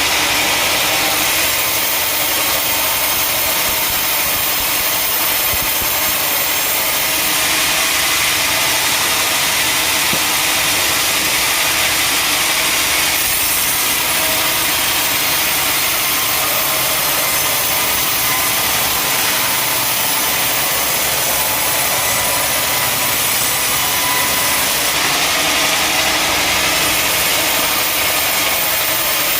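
Sawmill saw cutting wood over steadily running machinery: a loud, continuous hiss that swells for several seconds at a time, once partway through and again near the end.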